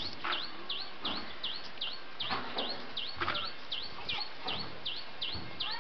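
A bird repeating one high chirp, falling then rising in pitch, about three times a second in an even, steady rhythm. A few brief scuffing noises sound underneath.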